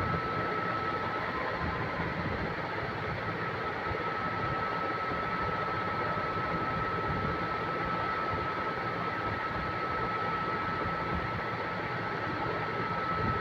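Steady machine noise with a constant high whine, unchanging throughout.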